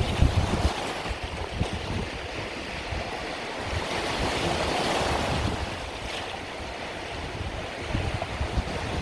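Mediterranean sea waves washing onto the beach, a continuous wash that swells about halfway through, with wind buffeting the microphone near the start and near the end.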